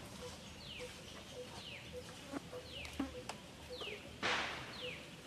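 Birds calling in the background: a high, quickly falling chirp repeated about twice a second over a low hooting note that repeats on a steady beat. About four seconds in comes a short loud rustle, with a couple of faint clicks before it.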